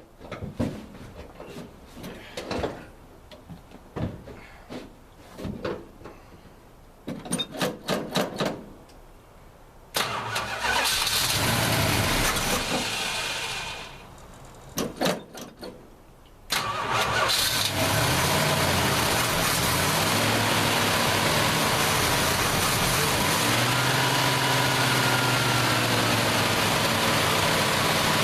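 Cold start of a 1968 Plymouth Fury's 383 big-block V8 after years out of use. After some knocks and a short run of quick strokes, the engine catches about ten seconds in, runs for a few seconds and dies. It gives a couple of short coughs, then fires again and keeps running steadily on the choke at a fast idle.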